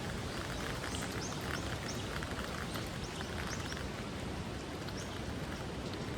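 Steady rain falling on hard surfaces, with many scattered crisp ticks of drops over an even hiss.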